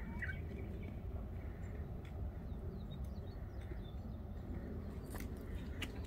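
Faint songbird chirps over a steady low rumble, with a few sharp clicks scattered through.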